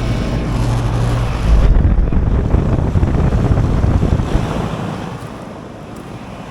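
Outdoor air-conditioner condensing unit with a Copeland compressor running, a steady low hum, under heavy wind buffeting on the microphone. The buffeting grows louder about a second and a half in and eases near the end.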